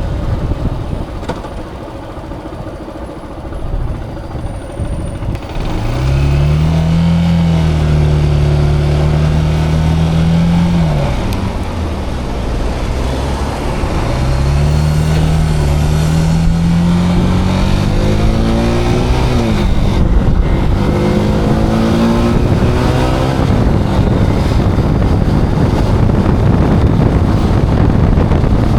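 Zontes cruiser motorcycle's engine pulling away after a quieter spell and accelerating up through the gears: the engine note climbs, drops at each shift, three times, then levels into steady riding with heavy wind rush on the camera microphone.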